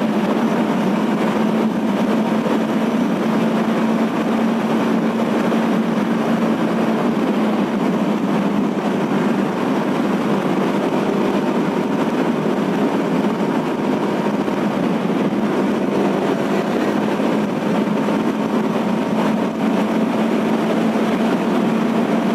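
Motorcycle running at a steady cruising speed, its engine hum mixed with a continuous rush of wind and road noise.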